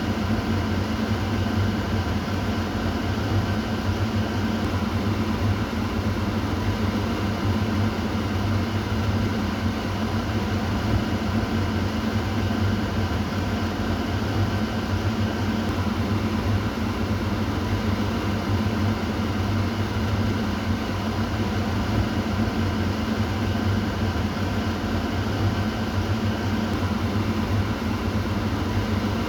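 Kitchen exhaust fan running steadily: an even rush of air over a low motor hum, unchanging throughout.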